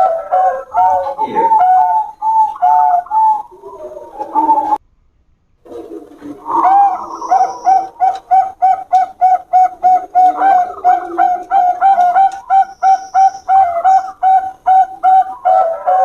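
Zebra doves (Bangkok perkutut) cooing in a quick run of short repeated notes, about three or four a second. A brief silence breaks in about five seconds in.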